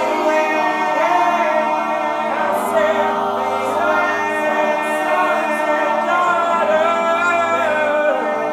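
Several voices singing in layered harmony without instruments, holding long notes that shift slowly in pitch.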